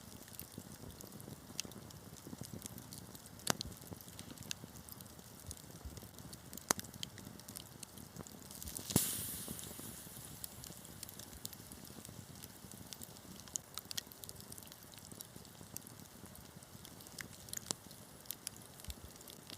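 Wood fire crackling: irregular sharp pops and snaps over a soft steady hiss. One louder pop comes about nine seconds in and trails off in a short hiss.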